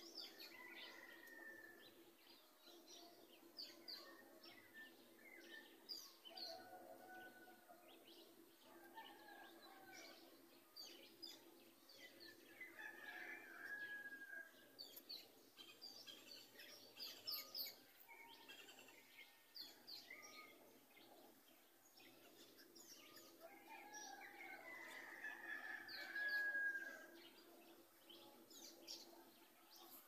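Wild birds chirping and calling, faint: many short high chirps with a few longer whistled phrases about 13 seconds in and again about 25 seconds in. A faint steady hum runs underneath.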